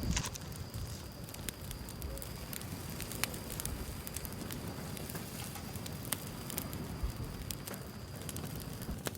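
Firewood burning in an open fire, crackling steadily with scattered sharp pops.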